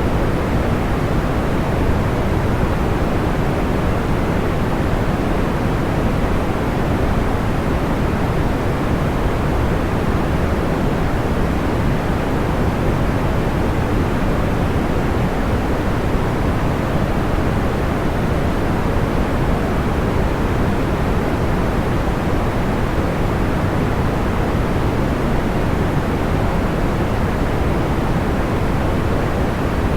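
Steady synthetic white-noise bed, weighted toward the low end like pink noise, a soft even rush with no change in level and no separate crackles or pops standing out.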